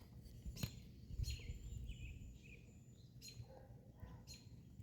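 Faint songbird chirps and calls: short high notes and brief glides coming every second or so, over low background rumble.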